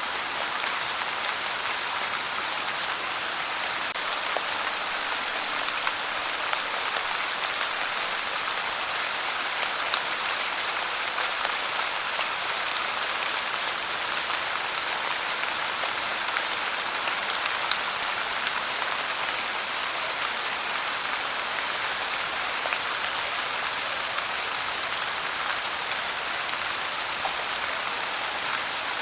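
Steady rain falling, with the hiss of the downpour and small drops pattering on a surface.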